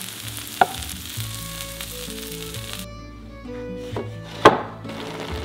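Lotus root slices sizzling in oil on a griddle, over background music with a slow melody. The sizzle stops about three seconds in, and a sharp knock comes about a second and a half later, the loudest sound.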